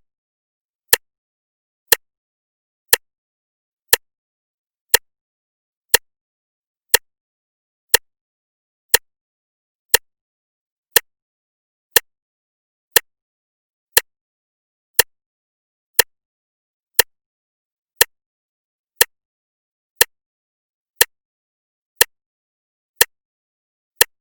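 Clock ticking once a second: sharp, even ticks with silence between them.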